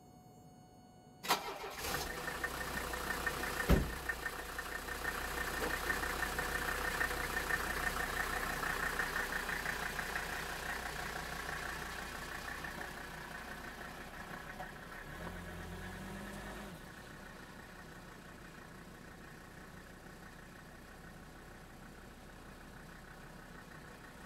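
Mercedes-Benz W123 diesel engine starting about a second in and then running, with a single sharp thump a few seconds later. The car then backs out and pulls away, its engine sound fading with distance.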